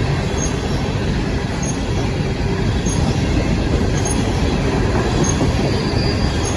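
CSX coal train rolling past, a steady, loud rumble of its cars on the rails, with faint short high squeaks recurring a little less than once a second.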